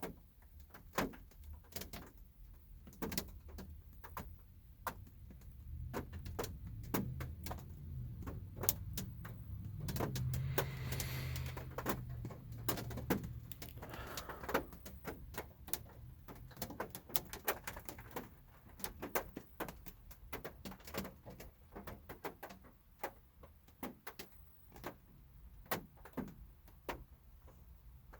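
Light rain heard from inside a car: scattered raindrops tapping irregularly on the roof and windshield. A low rumble swells and fades in the middle.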